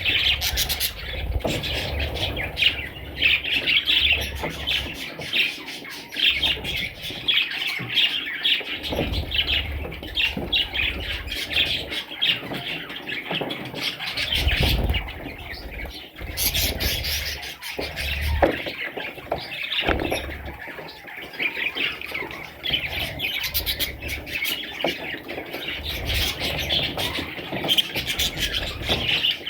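Parrots chattering and squawking in a dense, continuous run of rapid chirps.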